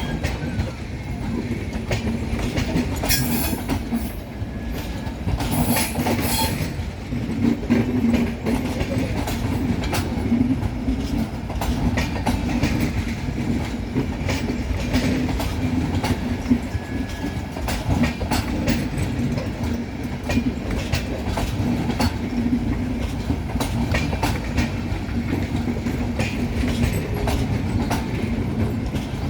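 Passenger train coaches rolling past, the wheels clicking steadily over rail joints over a continuous rumble and a steady low hum.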